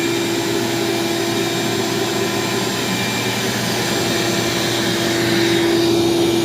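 Craftsman 16-gallon wet/dry shop vac running without filters, a steady motor whine over a rush of air that holds at one pitch.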